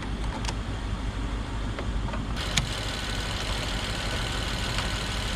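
Car engine idling steadily, the running donor car that is charging a dead battery through jumper cables.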